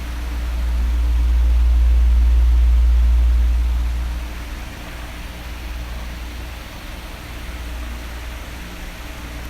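Electric fan running with a steady hiss. A deep low rumble swells from about a second in and falls back after about four seconds.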